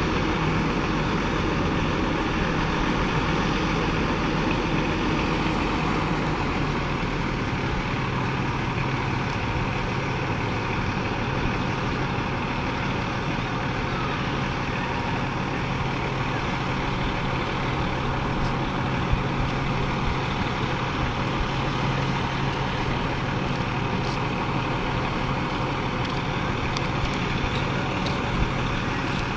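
Fire engine's diesel engine running steadily, a continuous low hum with mechanical noise and no change in pace. A few faint clicks near the end.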